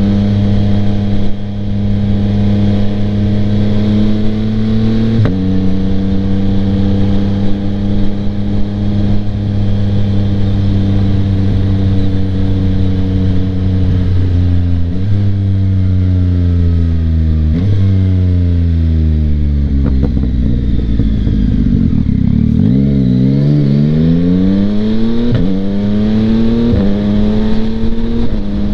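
Yamaha MT-09's 890 cc inline-three running through a Kelpi Flanker aftermarket exhaust while riding, heard from a mic inside the rider's helmet. The engine note steps abruptly up and down several times with gear changes, and about twenty seconds in the revs fall to a low note before climbing again as the bike pulls away.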